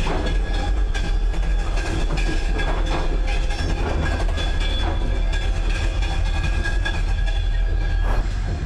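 A moving passenger train heard from inside the carriage: a steady low rumble of the running train with wheel-on-rail noise and occasional light clicks.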